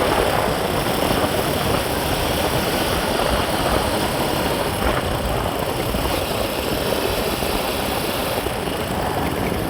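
Steady noise of a moving vehicle: an even rumble of engine and road noise with no breaks.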